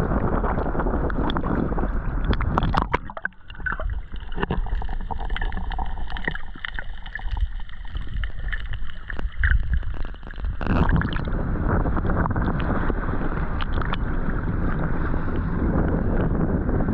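Ocean water sloshing and splashing with wind buffeting the microphone. From about three seconds in to about ten seconds in the sound turns muffled, with scattered sharp clicks, before the full rush of water and wind returns.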